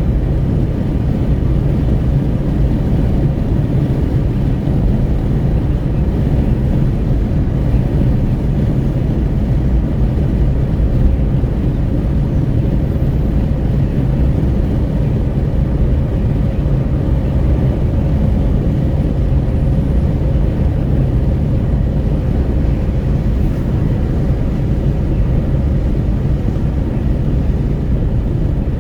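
Steady wind rushing through an open window, with tyre and road noise, heard inside a Renault Kwid 1.0 cruising on a highway.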